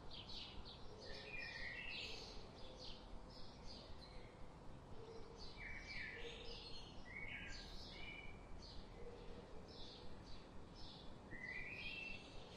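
Several songbirds chirping and calling: rapid short high chirps repeating a few times a second, mixed with occasional runs of lower stepped notes, one rising near the end.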